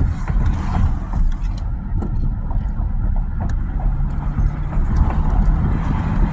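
Vehicle on the move: a steady low rumble of engine and road noise, with a faint steady hum joining in about two-thirds of the way through.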